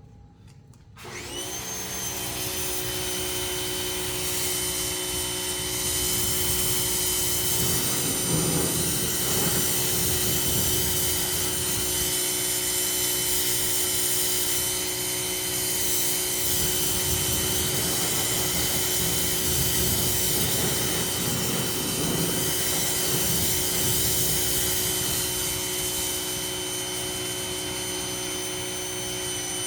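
Ryobi 2000 psi power washer starting up about a second in with a quick rising whine, then running steadily with its motor whine over the hiss of the water spray, which grows and eases slightly as the spray moves.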